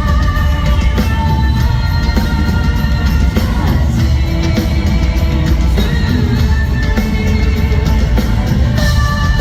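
Symphonic metal band playing live, loud and dense, with a singing voice over heavy drums and bass.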